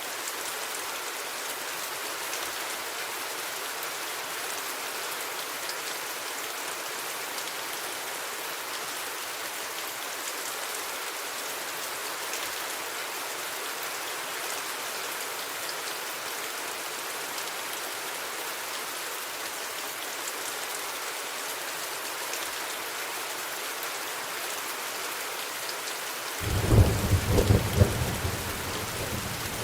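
Steady rain falling, an even hiss and patter of drops. Near the end a loud, low rumble of thunder breaks in suddenly and carries on.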